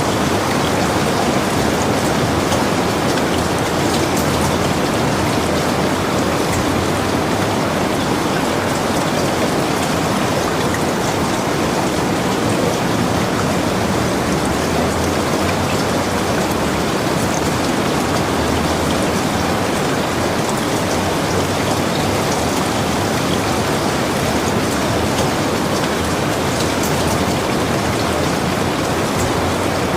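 Steady rain: an even, dense hiss of falling rain with faint scattered ticks of individual drops.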